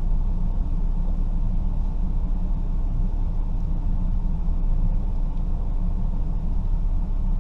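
A vehicle engine idling, a steady low rumble that holds even throughout.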